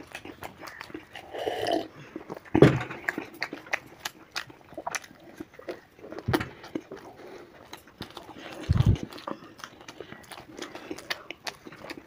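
Close-up chewing and lip-smacking on mouthfuls of fried bread pakora, a quick run of small wet clicks. A loud knock comes about two and a half seconds in, and a low thump near nine seconds.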